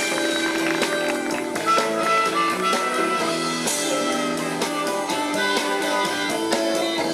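Instrumental band music: held melody notes over a steady drum beat.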